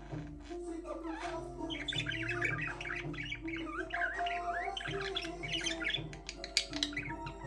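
Budgerigars chirping and warbling in quick, overlapping calls, busier from about two seconds in.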